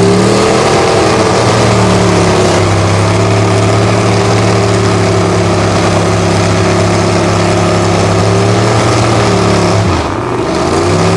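An off-road vehicle's engine running loud at steady revs. Near the end the revs drop briefly, then rise again.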